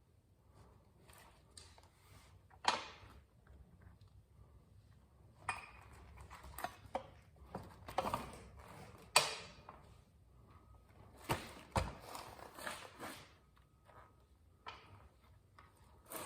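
Scattered metallic clinks and knocks of hand tools and parts being handled during motorcycle rear wheel reassembly, a dozen or so separate strikes at irregular intervals, some ringing briefly.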